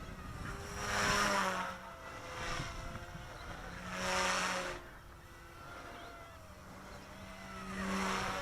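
Micro RC helicopter's direct-drive brushless main motor and rotor whining at a steady head speed, growing loud three times as it sweeps close past on its figure-8 loops: about a second in, about four seconds in, and near the end, with the pitch bending slightly on each pass.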